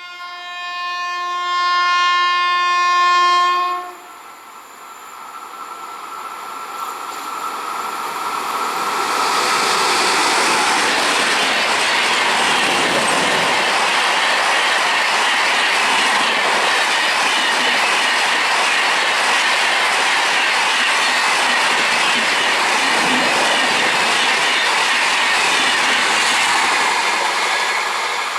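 Indian Railways electric train sounding one long, steady horn blast for about four seconds, then running past at speed. A loud, steady rush of wheels on rail with clickety-clack holds for most of the time and eases slightly near the end.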